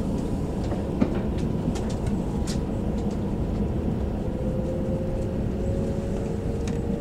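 Shinkansen train running, heard from inside the passenger cabin as a steady low rumble, with a faint whine that rises slowly from about four and a half seconds in.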